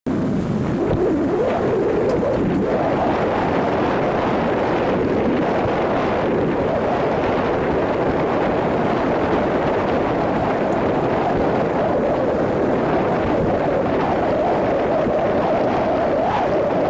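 Steady rushing roar of a river cruise boat under way, its running noise mixed with wind on the microphone, with a slowly wavering low hum.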